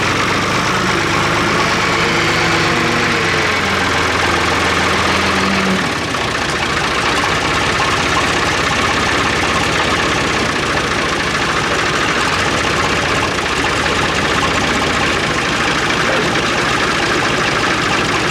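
Engine idling steadily, a loud continuous hum. A pitched tone sits in it for the first six seconds, then drops out, leaving a steadier, rougher sound.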